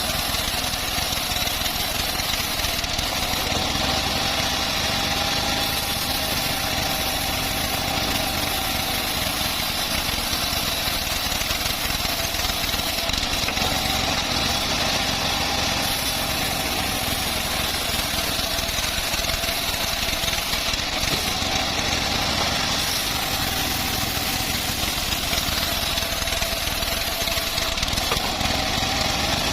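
Homemade bandsaw sawmill running steadily: a continuous engine-driven machine drone with a faint high tone, unchanging throughout.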